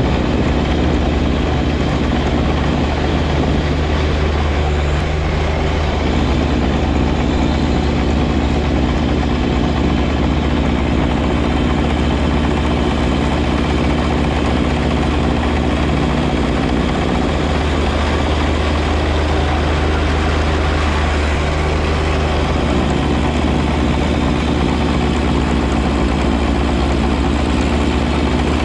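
A 2024 John Deere 1025R compact tractor's three-cylinder diesel engine running steadily, with its 54-inch front snow blower running over it as a broad hiss. The engine note shifts slightly a few times.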